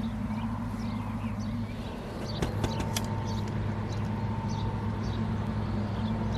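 Small birds chirping over a steady low hum, with a few sharp clicks about two and a half seconds in.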